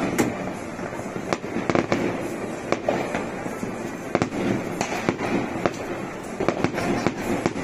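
Fireworks going off in a continuous, irregular run of bangs and pops.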